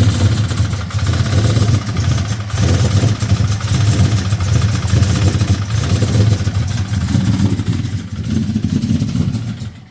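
A truck's engine running loud and steady, cutting off suddenly near the end.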